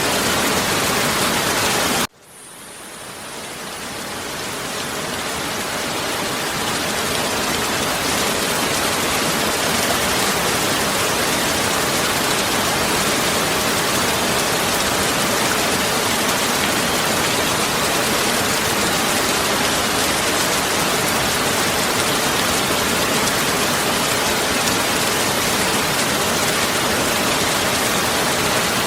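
Heavy rain falling as a steady, even hiss. About two seconds in it cuts out suddenly, then fades back up to full strength over the next several seconds.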